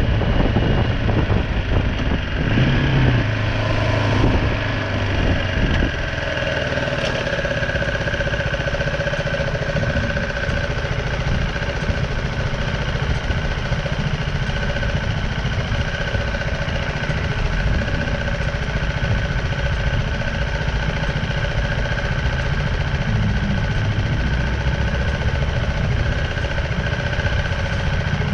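BMW G310R's single-cylinder engine, uneven for the first few seconds as the bike comes off the move, then idling steadily.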